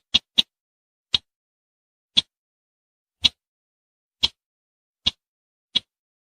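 Sharp, dry ticking call notes of the sintar semak bush bird: two quick ticks, then single ticks spaced about a second apart.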